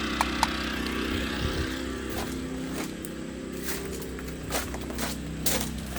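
3200-watt portable generator engine running steadily in regular mode, not eco mode, with several sharp clicks and knocks over it.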